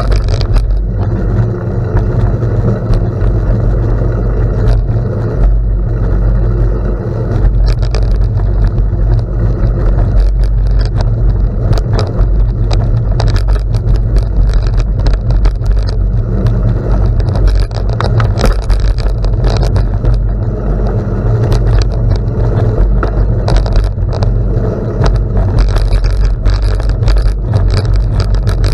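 Wind rushing over the microphone of a moving bicycle, with the tyres crunching and rattling over a gravel road: a loud, steady rumble dotted with many small clicks and knocks.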